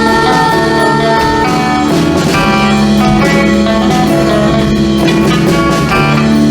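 A live rock band playing an instrumental passage: electric guitar chords over bass and drum kit, with no singing.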